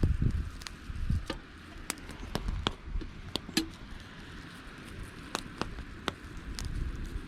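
Wood campfire crackling, with irregular sharp pops and snaps over a steady hiss. Low rumbles of wind on the microphone swell near the start and again near the end.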